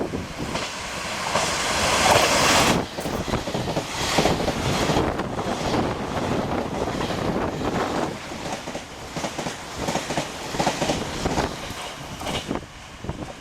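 Express passenger train passing through at speed, close to the track. A rush of noise builds to a peak in the first few seconds, followed by wheels clattering over the rail joints that fades toward the end.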